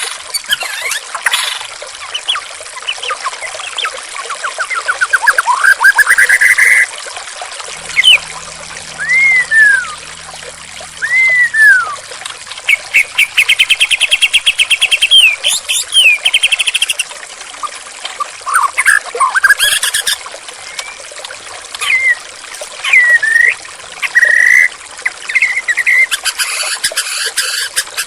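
White-rumped shama (murai batu) singing a varied run of arched whistles and rapid trills over a steady rush of flowing water.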